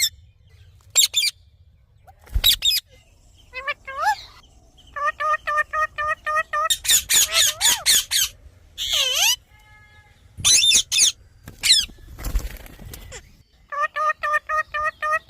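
Indian ringneck parrot calling: sharp warbling squawks alternating with runs of quick, evenly repeated notes, about five a second. A short rustling noise sounds about twelve seconds in.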